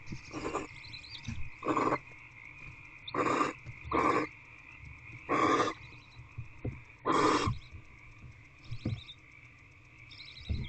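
Barn owls giving short rasping hisses, six of them spread irregularly about a second or so apart, over a steady high-pitched background hum.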